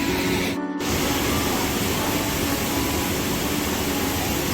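Steady rushing noise, with a brief dropout under a second in.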